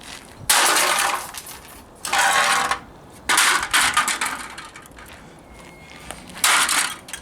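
A speaker being smashed: four loud crashes, each with a clatter of breaking, rattling pieces.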